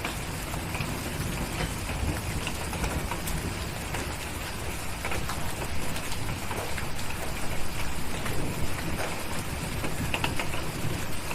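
Steady rain with scattered sharp crackles and ticks over a low rumble, growing a little louder toward the end.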